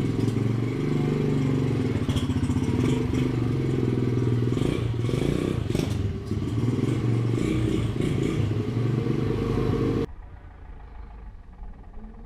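Rebuilt pit bike's small single-cylinder engine running steadily with some mechanical clatter. About ten seconds in, the engine sound cuts off abruptly, leaving a much quieter low rumble.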